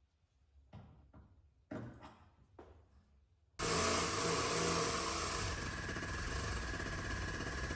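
A few light knocks, then a power tool switches on suddenly about three and a half seconds in and runs steadily.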